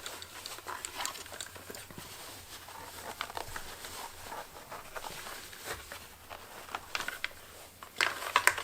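Hard plastic clicking and rubbing as a headlight is pressed into a tight-fitting plastic headlight housing. Scattered light clicks and taps, with a louder cluster of clicks and scrapes near the end.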